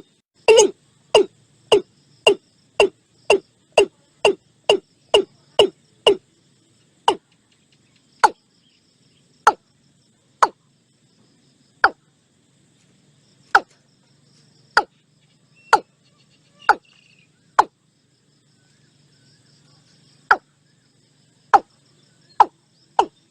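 Watercock calling: a series of short, loud notes, each falling in pitch, about two a second at first, slowing to single notes one to two seconds apart through the middle, then quickening again right at the end.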